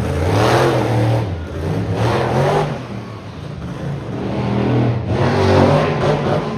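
Monster truck engine revving, surging up in pitch and easing off several times, about once at the start, again around two seconds in, and near the end.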